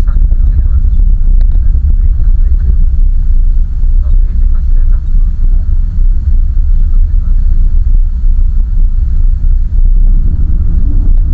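Land Rover Freelander 1 Td4 on the move, its BMW M47R four-cylinder turbodiesel and tyres making a loud, steady low rumble.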